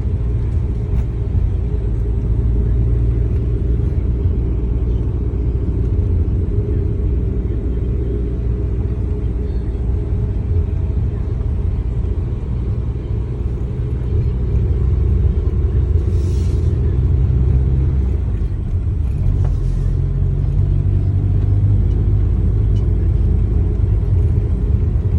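Steady low rumble of a car driving, engine and road noise, with two brief hisses partway through.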